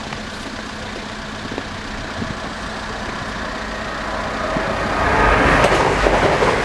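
A Class 175 diesel multiple unit approaches and passes through the level crossing at speed. Its rushing noise builds from about four seconds in and is loudest near the end. Before it arrives, a bus engine idles steadily underneath.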